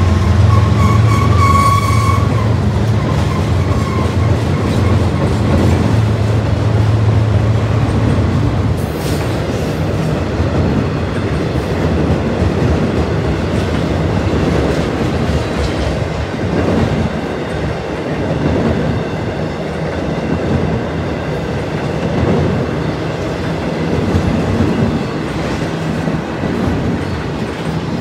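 Freight train cars rolling past across a steel trestle bridge, wheels clattering over the rail joints in a steady rumble. A low diesel locomotive drone carries over the first eight seconds or so and then drops away, with a brief high squeal near the start.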